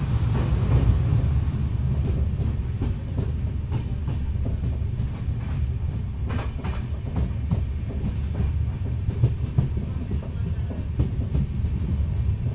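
Passenger train running along the track, heard from beside the moving coach: a steady low rumble with wheels clicking over rail joints now and then, a few clicks together about halfway through.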